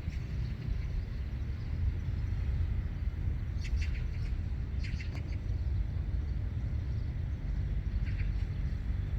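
Outdoor ambience: a steady low rumble with short bird chirps, about three times.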